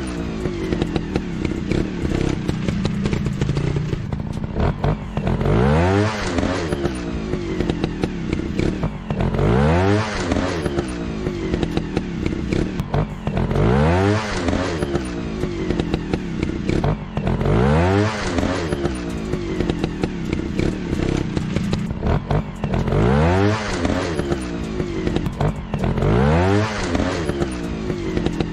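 Motorcycle engine revving repeatedly, its pitch rising and falling about every four seconds over a steady running note.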